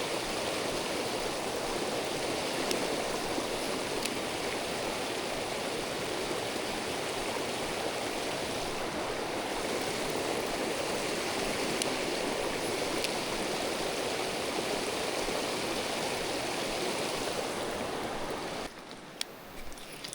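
Mountain stream water rushing and splashing steadily over rocks. Near the end it cuts off abruptly to a much quieter scene with a few sharp clicks.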